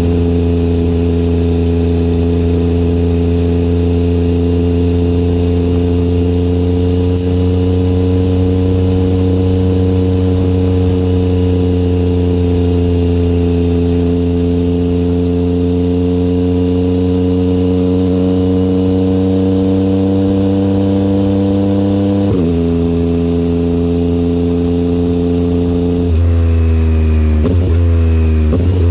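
2022 Yamaha XSR900's inline-three engine through a Kelpi aftermarket exhaust, running at a steady cruise. Its pitch rises slightly and then eases off, and it drops sharply twice, about 22 and 26 seconds in, as the revs fall.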